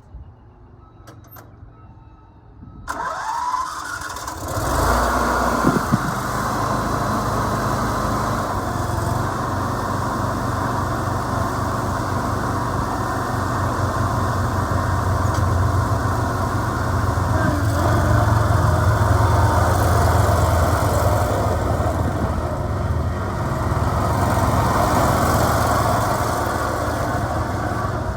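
Ferris ISX2200 zero-turn mower's 28 hp Briggs & Stratton Vanguard V-twin engine. After a couple of faint clicks, the starter cranks it about three seconds in, it catches a second or so later, and then it runs steadily.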